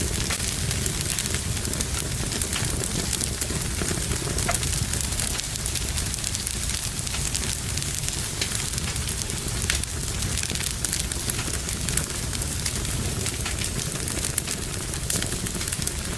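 Fire crackling in a fireplace: a steady low rush of flame with frequent small, sharp pops and crackles scattered throughout.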